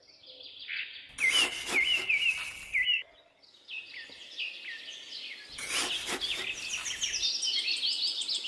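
Small birds chirping in quick repeated notes, growing busier towards the end. Two spells of rough noise, each about a second and a half long, cut across it, one about a second in and one past the middle.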